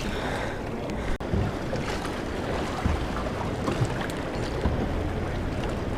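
Steady wind noise on the microphone over water and waves around a fishing boat, with a few faint knocks.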